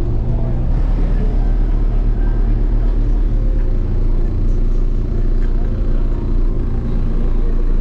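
Car stereo subwoofers playing loud, steady deep bass, heard as an unbroken low rumble, with faint voices of people around.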